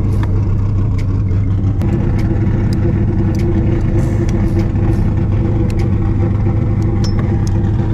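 Drift car's engine running at a steady idle, heard from inside the cabin, with a deep steady hum and scattered light clicks and rattles.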